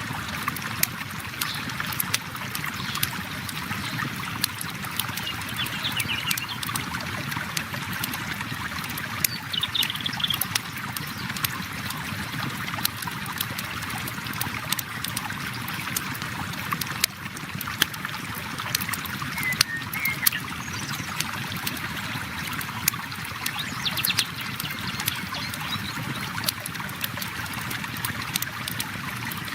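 Flowing river water running steadily, with a wood campfire crackling on top in irregular sharp pops.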